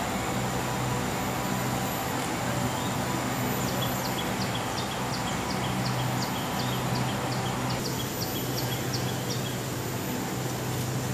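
Steady low hum of an idling truck engine. From a few seconds in until past the middle, a rapid, even run of short high chirps sounds over it, about three to four a second.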